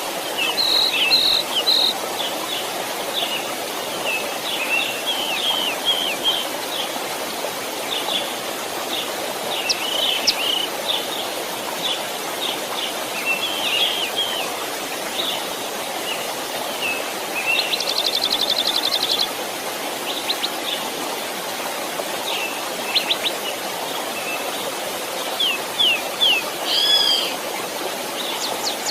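Steady rush of a flowing stream, with several songbirds chirping and calling over it, including a fast buzzy trill about two-thirds of the way through.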